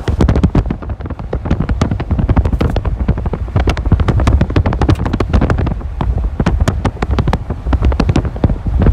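Inside a moving vehicle with the window up: a low, steady road rumble under a dense, irregular patter of sharp hits on the body.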